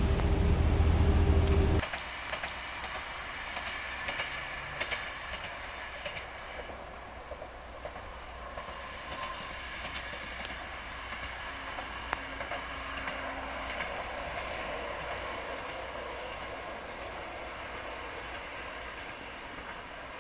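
Kyoto Tango Railway train running past a level crossing, its wheels clicking irregularly over the rail joints, slowly fading. It opens with a loud low rumble that cuts off abruptly about two seconds in.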